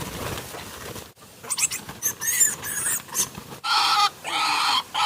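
An animal calling: a run of short, high squeals, then two long, loud calls near the end.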